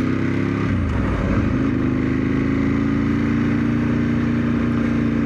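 A 1997 Ducati 916's V-twin engine running under way on a ride. The revs dip and recover about a second in, then hold steady at moderate revs, kept low for the running-in period.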